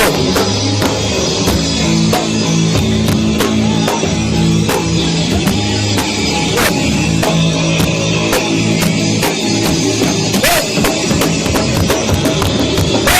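Heavy rock band playing live at full volume, drums hitting steadily under thick guitar and bass, badly distorted by an overloaded recording.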